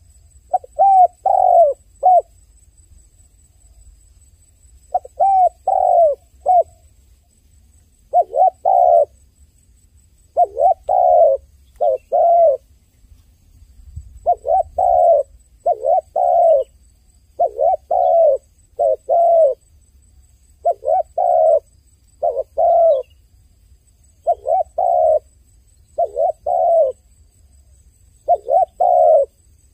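A dove cooing: short phrases of two or three low coos, repeated over and over. There are a couple of longer gaps in the first few seconds, then the phrases come about every one and a half to two seconds.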